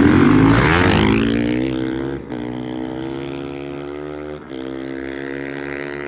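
Dirt bike engines running hard: a loud pass with bending pitch at the start, then one engine holding a steady high note that breaks off briefly twice, like quick gear shifts.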